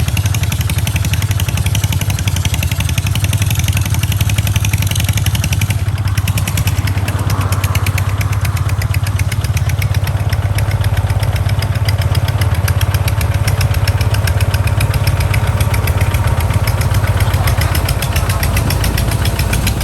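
Kubota tractor's diesel engine running steadily under way, with a fast, even beat and no break.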